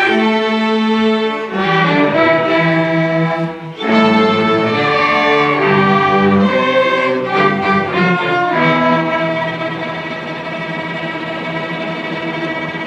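School string orchestra playing full sustained chords on violins and cellos. Over the last few seconds it holds one long chord that slowly grows softer.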